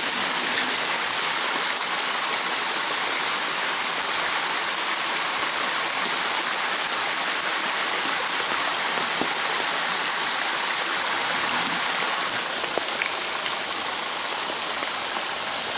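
Steady hiss of rain falling together with a shallow forest creek running over rocks.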